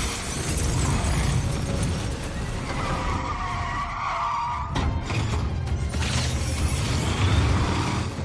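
Film car-race soundtrack: car engines running hard and tyres squealing over music, with a sharp impact at the start and another about five seconds in.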